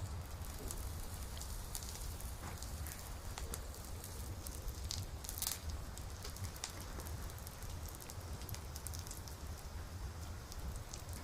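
Campfire burning, with scattered crackles and pops over a low steady rumble; one sharper pop comes about five and a half seconds in.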